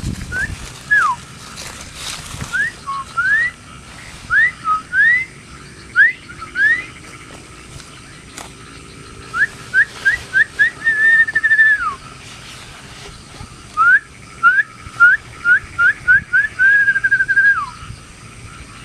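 A person whistling through the lips: runs of short upward-sliding whistles, twice ending in a longer held note that drops away at the end.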